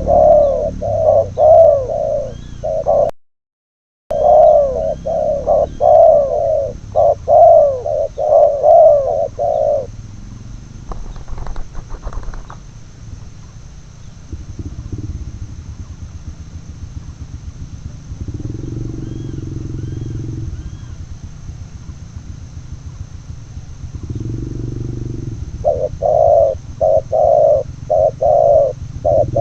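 Spotted doves cooing loudly in quick repeated phrases for the first ten seconds and again near the end, with softer, lower coos in between. The sound drops out completely for about a second, roughly three seconds in.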